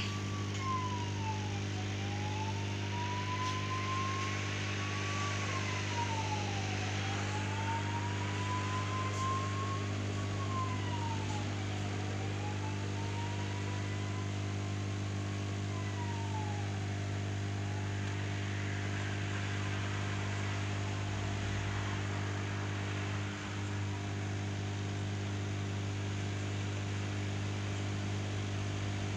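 A steady electrical hum with a hiss. Over it, a siren wails in the distance, rising slowly and dropping quickly about every five seconds, four times, then fading out about halfway through.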